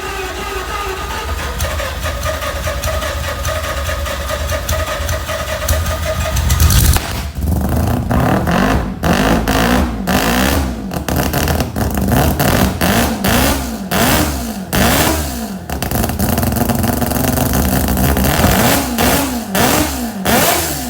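Mazda RX-3's rotary engine running at a steady speed, then from about seven seconds in revved again and again in quick blips, each rising and falling, with sharp cracks from the exhaust between them.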